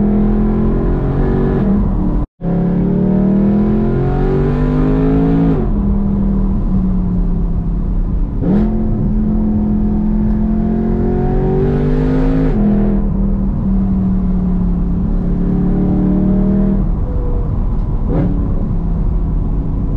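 BMW E92 M3's 4.0-litre V8 with a loud exhaust pulling through the gears under acceleration. Engine pitch climbs over a few seconds, then falls sharply at each shift, about five times. The sound cuts out completely for a moment about two seconds in.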